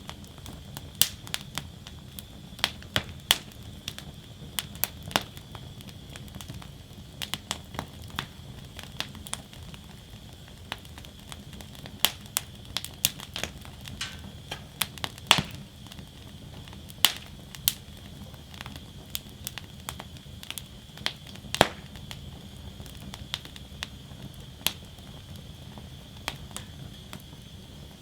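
Wood fire burning in a fire basket, crackling with irregular sharp pops and snaps of burning wood over a low steady rumble of the flames.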